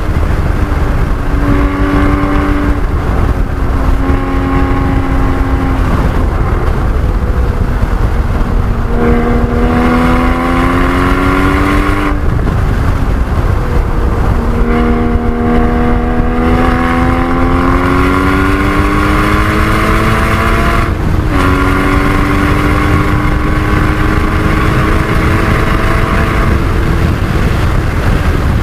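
Porsche 981 Cayman GT4's 3.8-litre flat-six at full lapping pace, its pitch climbing in long pulls under acceleration and dropping abruptly at shifts or lifts about 9, 12 and 21 seconds in. Heavy road and wind rumble runs underneath.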